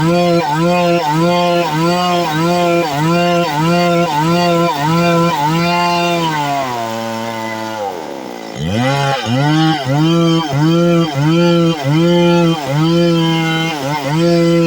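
Stihl two-stroke chainsaw running at high revs, the engine note dipping briefly about twice a second as the chain bites into the wood. About halfway through the revs fall away and nearly die, then it is throttled back up and the rhythmic dipping resumes.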